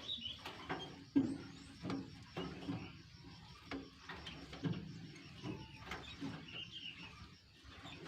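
Irregular light knocks and clicks, several a second, with birds chirping faintly now and then.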